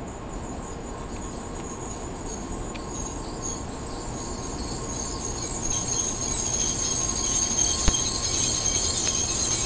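N700 series Shinkansen train pulling out, its running noise growing steadily louder as it moves past, with a high-pitched whine strengthening about halfway through. A single sharp click near the end.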